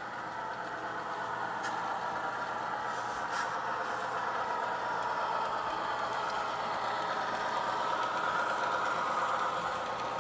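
Model MKT PA diesel passenger locomotive running with a steady diesel engine sound that grows slightly louder.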